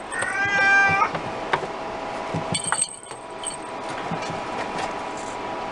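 Scottish Fold kitten giving one high meow lasting about a second at the start, followed by a few faint clicks.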